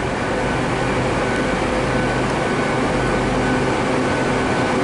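Stationary GWR bi-mode intercity express trains idling at the platforms: a loud, steady hum of diesel engines and on-board equipment with a few held tones, a lower tone joining about three seconds in.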